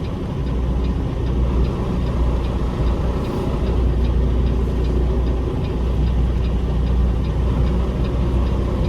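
Semi truck's diesel engine running low and steady while the tractor-trailer is manoeuvred slowly through a tight turn.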